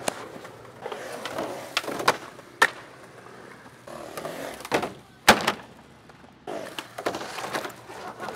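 Skateboard wheels rolling, broken by several sharp clacks of the board hitting the ground; the loudest clack comes about five seconds in.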